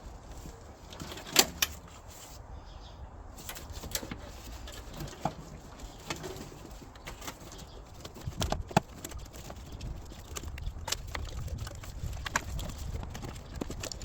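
Scattered sharp clicks and light knocks of engine wiring and connectors being handled and pulled loose. A sharp click comes about a second and a half in, and a small cluster of knocks just past the middle.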